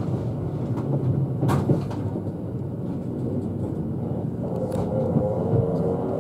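Running noise inside a limited-express electric train slowing into a station: a steady low rumble with a couple of sharp clacks from the wheels. A thin, higher tone comes in about four seconds in.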